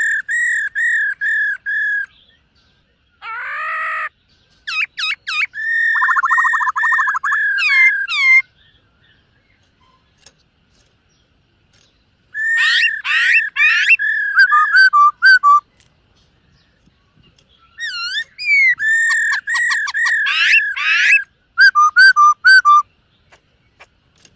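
Black-throated laughingthrush singing: loud, clear whistled phrases made of short repeated notes and quick slurred trills, in four bouts of a few seconds each with pauses between them.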